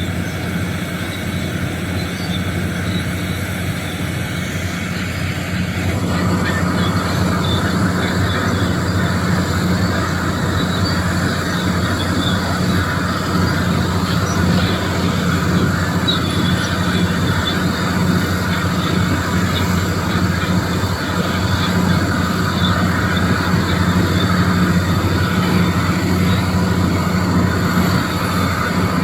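Doosan DX390 excavator's diesel engine running steadily, with a louder noisy layer joining about six seconds in as the machine works.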